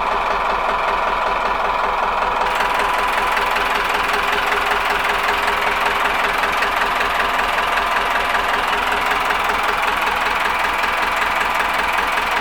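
Yanmar FX27 boat's engine idling steadily.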